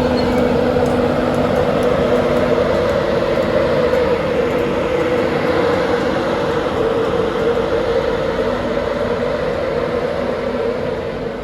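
Train running, a steady loud rumble with a low hum, easing slightly near the end.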